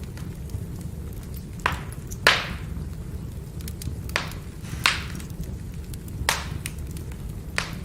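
Wood fire burning: a steady low roar with sharp crackles and pops, about six loud snaps and smaller ticks between them, the loudest a little over two seconds in.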